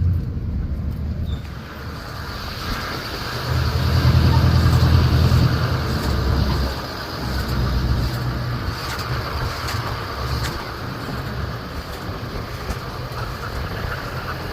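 Duramax diesel pickup towing a loaded flatbed trailer slowly along a dirt road. Its low engine drone swells for a few seconds about three and a half seconds in, under a steady hiss of tyres on dirt and occasional small clicks and rattles.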